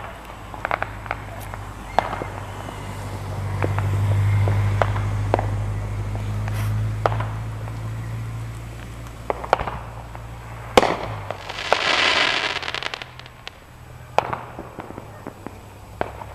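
Fireworks and firecrackers going off: irregular sharp bangs and pops, the loudest just under two-thirds through, followed by a hissing burst lasting about a second and a half. A low rumble runs under the first half.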